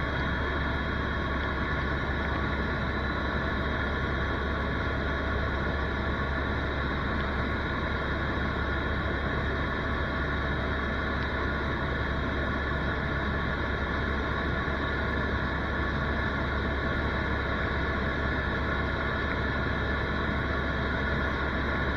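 Helicopter in flight, heard from inside the cabin: a steady drone of engine and rotors with a constant high whine over it.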